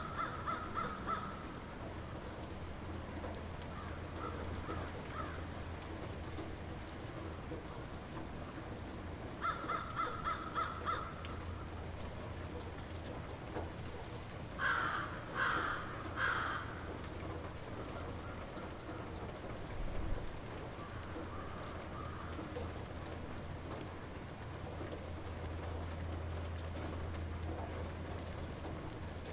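Light rain falling steadily. Over it a bird calls: a quick run of about five short notes at the start, again about ten seconds in, and three loud harsh calls about halfway through.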